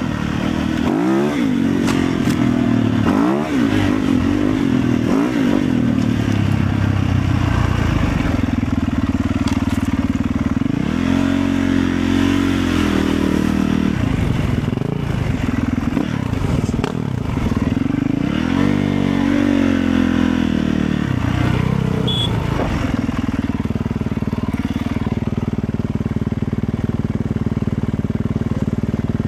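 Motorcycle engine running under way, its pitch rising and falling several times as it speeds up and slows, over a steady rushing noise.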